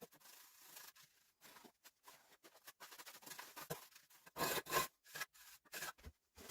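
Irregular short scraping and rubbing noises, loudest in a pair about four and a half seconds in.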